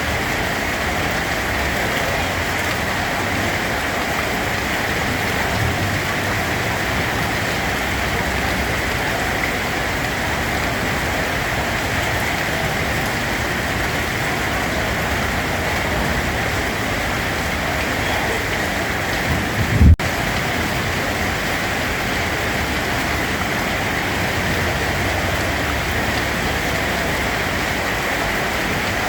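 Steady rain falling on a surface, an even wash of noise. About two-thirds of the way through there is a brief low thump, then a split-second break in the sound before the rain carries on.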